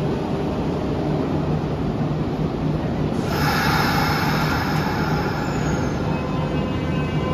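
Electric trains at an underground platform: steady running noise, joined about three seconds in by a hiss, and in the last seconds by a few steady whining tones as the red-and-white Kintetsu train on the next track begins to pull away.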